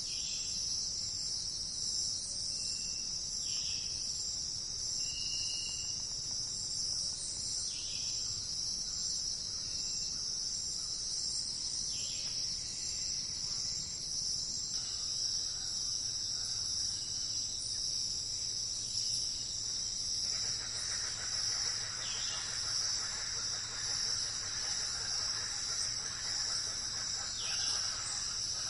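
Forest ambience: a steady, high-pitched insect chorus drones without a break, with short bird chirps and brief whistled notes here and there.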